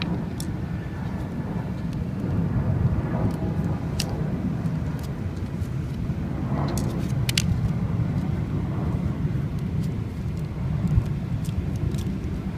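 A steady low outdoor rumble, with a few short clicks and taps here and there.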